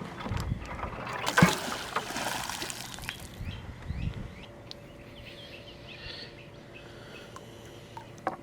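Pond water splashing for about three seconds, with a sharp knock about a second and a half in, then a couple of dull thuds; faint bird chirps follow.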